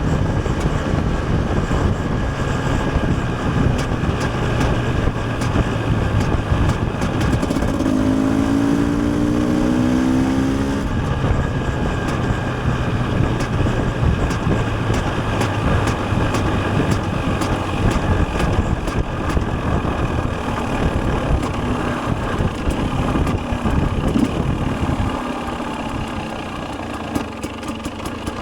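KTM 250 EXC TPI single-cylinder two-stroke dirt bike engine running under riding load. Near the end it drops off to a lower, pulsing run toward idle.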